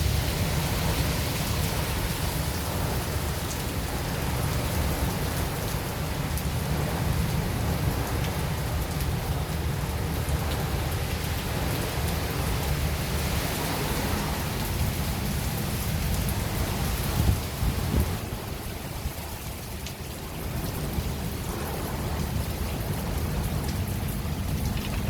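Steady rain falling in a thunderstorm, with a constant low rumble underneath and a brief louder sound about seventeen seconds in.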